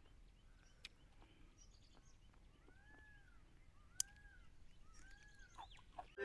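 Faint outdoor ambience with three short bird calls, each rising and then falling in pitch, about a second apart, and two sharp clicks, the louder one about four seconds in.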